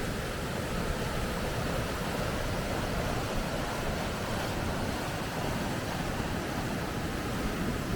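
Rapids: rushing river water running in a steady, even roar with no breaks.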